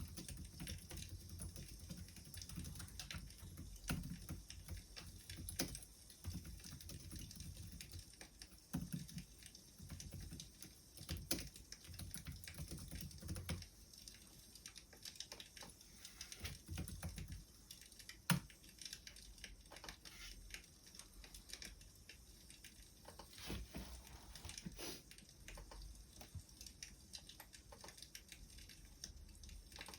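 Wood fire crackling, with irregular small pops and one sharper pop about 18 seconds in.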